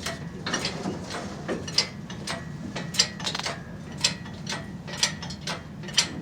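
Hoist ratchet clicking repeatedly, about two clicks a second, as a load is raised in steps, over a steady low hum.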